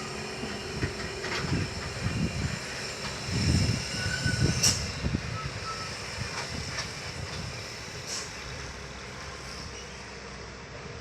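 Heavy sugarcane truck's diesel engine running, with low rumbling surges that are loudest about four seconds in, then fading away.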